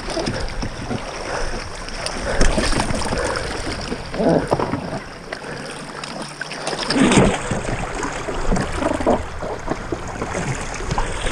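Water splashing and sloshing around a small boat on a river, in irregular surges with some knocks, over wind noise on the microphone.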